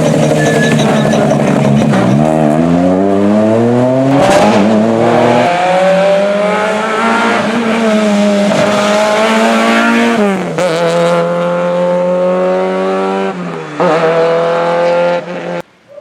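Rally car engine at full throttle, rising in pitch through the gears with several sharp drops at the upshifts. The sound cuts off suddenly near the end.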